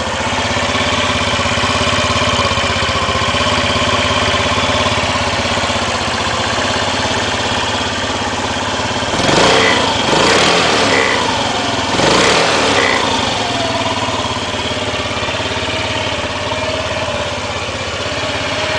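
2003 Honda Ruckus 49cc four-stroke single-cylinder scooter engine idling steadily just after a cold start, with three quick throttle blips that rise and fall in pitch about halfway through before it settles back to idle.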